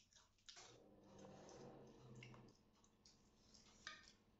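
Close-up eating sounds: a string of small wet clicks and smacks from chewing food. About half a second in, a low steady hum comes in and lasts about two seconds.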